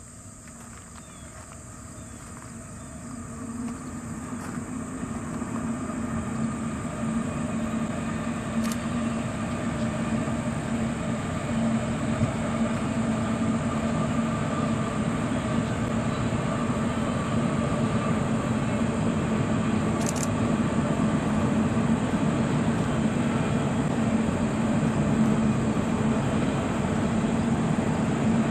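Union Pacific train approaching: the steady drone of its diesel locomotives grows louder over the first ten seconds or so, then holds at a steady level as the train runs close by.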